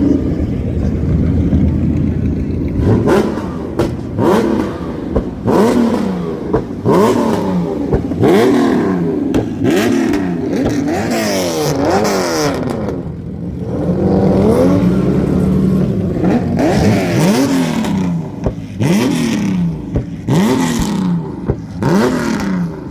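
Loud TVR V8 exhausts revving again and again, each blip rising and falling in pitch about once a second, with sharp cracks between the revs.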